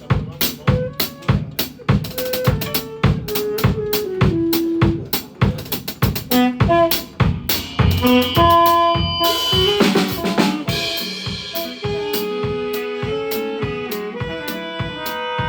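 Guatemalan marimba band playing, with a drum kit keeping a steady, busy beat under held melody notes; the drums play a denser fill about eight seconds in.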